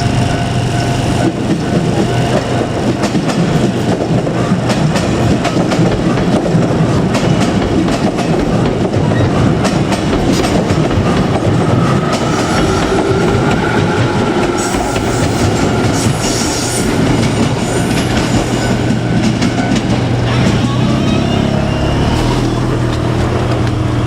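JR Kyushu 817 series electric train running by, its wheels clacking over the rail joints, over a steady low hum. About halfway through, a faint whine rises in pitch.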